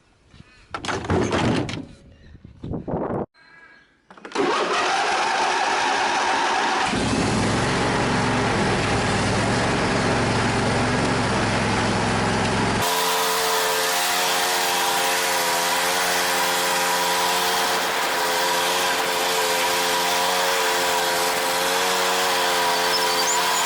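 A few loud knocks and clunks, then an engine starting up and running steadily with an even hum through the rest of the clip.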